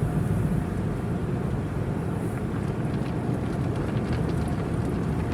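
Sonny's top brush of a tunnel car wash turning over the car's roof, heard from inside the car: a steady, quiet low rumble with a wash of noise above it.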